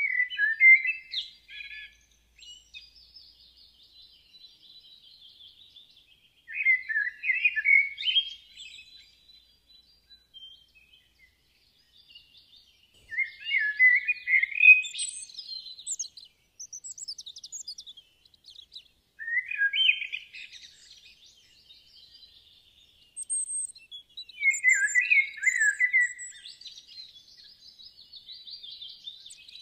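Birdsong: loud phrases of quick chirps, each about two to three seconds long, come roughly every six seconds, with fainter, higher twittering in between.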